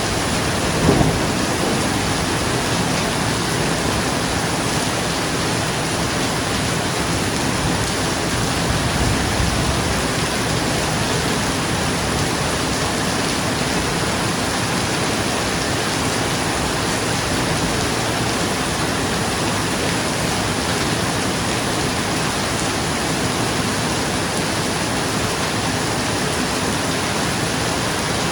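Steady heavy rain on a roof, an even hiss throughout. Two short low thunder rumbles rise out of it, about a second in and again around nine seconds in.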